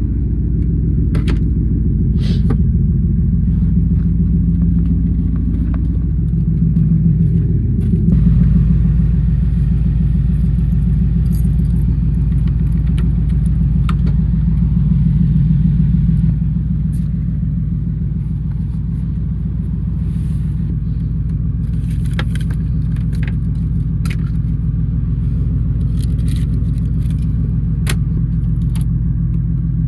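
Truck engine running, heard from inside the cab. It picks up speed about six to eight seconds in, stays louder until about halfway, then settles to a steadier, quieter run. Scattered light clicks and jangles, like keys and loose items rattling, occur throughout.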